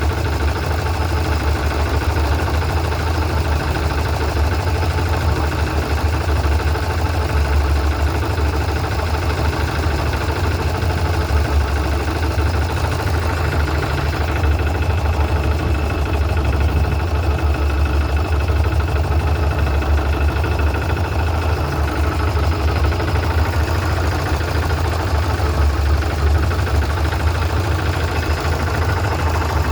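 An engine running steadily at a constant speed, a deep continuous hum with no change in pace; a faint high whine joins about halfway through.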